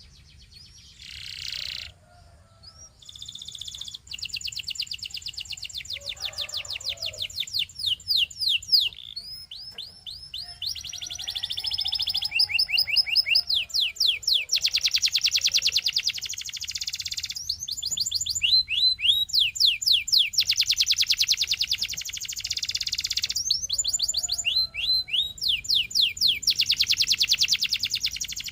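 Canary singing a long song of rapid trills and rolls, fast runs of repeated notes in phrases a few seconds long with short pauses between them, starting after about a second.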